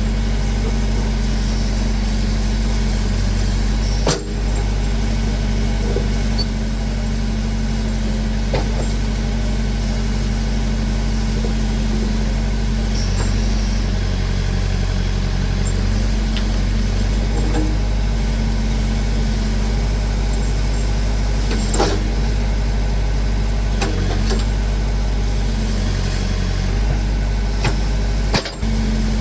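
Massey Ferguson backhoe's engine running steadily, with a few short sharp knocks: one about four seconds in, one past the middle and one near the end.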